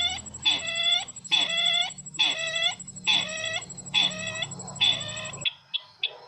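Repeated calls of the sisintar ladang, a bird sound used for luring. A clear clucking call comes about once a second, each note dropping in pitch and then holding. About five and a half seconds in, the calls stop abruptly, followed by a few short clicks.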